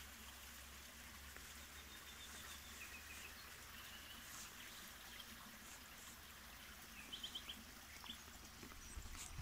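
Quiet countryside ambience with faint, scattered bird chirps, including a quick run of four chirps near the end.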